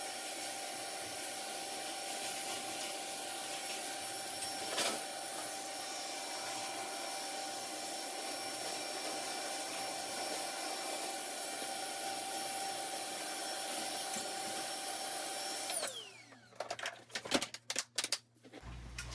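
Vacuum cleaner motor running steadily with a whine. About sixteen seconds in it is switched off and its pitch slides down as it winds down, followed by a few sharp knocks and clicks.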